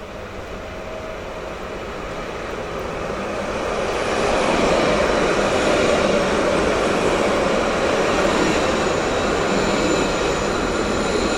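Light-rail tram approaching and passing close by. It grows louder over the first few seconds, then runs loud and steady with a thin high whine from its wheels and motors.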